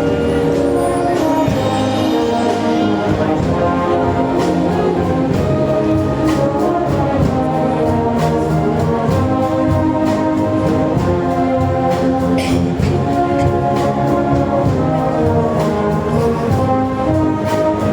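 A brass band playing live: trombones, trumpets and other brass holding sustained chords over a steady percussion beat.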